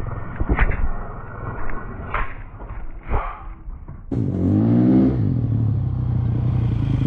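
Yamaha YZ250 two-stroke dirt bike engine running unevenly over rough ground with scattered knocks. About four seconds in comes a sudden loud burst whose pitch falls, then a steady engine note, heard during the crash.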